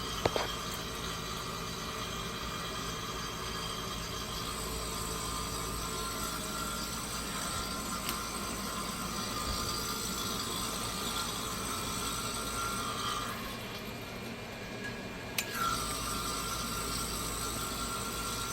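Refrigeration vacuum pump running steadily, evacuating a small cooler's refrigerant system through a piercing valve, mixed with a kitchen vent fan. A single sharp click about fifteen seconds in.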